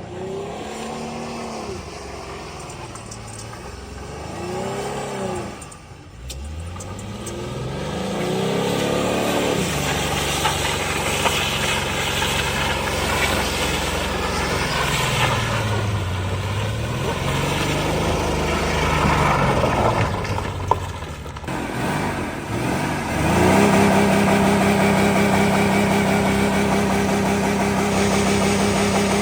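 2004 Ford Taurus's 3.0-litre V6 running on Dawn dish soap in place of engine oil, revved up and down several times with rising and falling pitch, then held at a steady, louder speed for the last several seconds.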